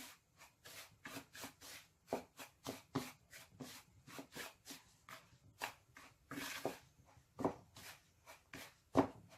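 Dry fine semolina mixed in a bowl with salt and baking powder for harcha, a run of quick rubbing strokes at about four a second. There is one longer rustle after about six seconds and a sharper knock near the end.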